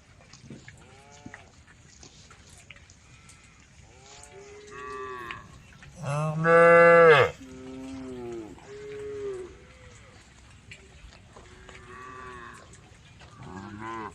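Domestic cows mooing back and forth, several calls from different animals. The loudest is one long moo about six seconds in, with fainter moos before and after it.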